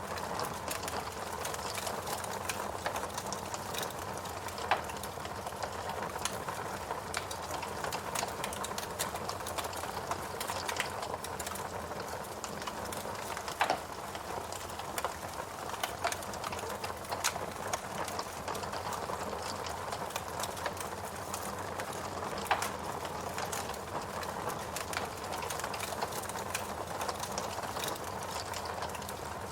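Wood fire burning in a fireplace: a steady hiss with frequent irregular crackles and a few louder pops as the logs burn.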